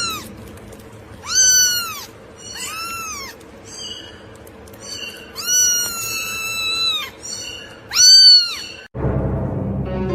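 Domestic cat meowing repeatedly: about half a dozen separate meows, each rising then falling in pitch, one of them long and drawn out in the middle. Near the end the sound cuts to a different, lower rumbling noise.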